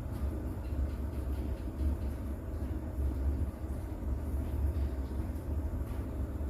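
Recorded rain with distant thunder: a continuous low rumble under a faint hiss of rain, with an occasional drip tick.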